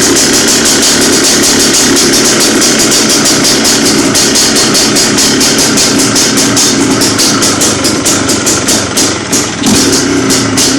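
Yamaha Blaster's 195cc air-cooled two-stroke single running loud and steady on full choke just after a cold start. From about seven seconds in, the level pulses and dips unevenly.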